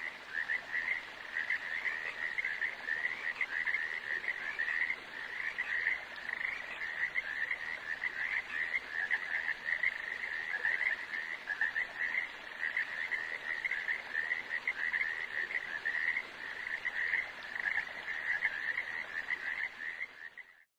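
A chorus of frogs calling steadily, a dense run of rapid pulsed croaks that fades out near the end.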